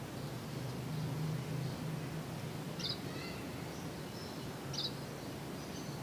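Outdoor background noise with a steady low hum, and a small bird chirping briefly twice, about three seconds in and again near five seconds.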